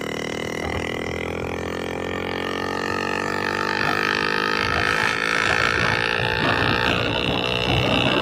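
Motorcycle engine running through an SC-Project aftermarket exhaust with its dB killer removed: a steady, deep exhaust note whose pitch rises slowly as the revs creep up, growing a little louder.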